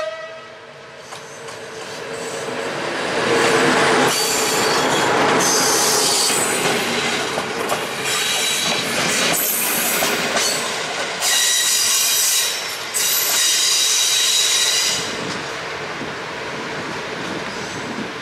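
Passenger train of double-deck coaches behind an electric locomotive rolling past as it departs, wheels squealing in several shrill spells over the middle of the pass. The rumble eases as the last coach moves away.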